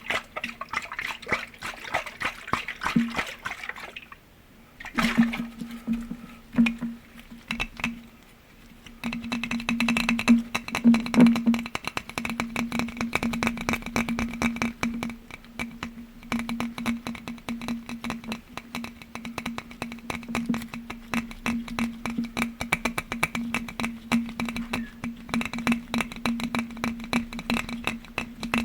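Rapid tapping on glass objects, the glass ringing with a steady tone under the quick taps. The tapping eases off briefly about four and again about eight seconds in.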